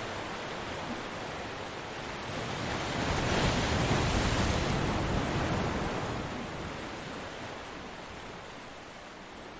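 Ocean surf: one wave swells and breaks about three seconds in, then the wash recedes and fades slowly.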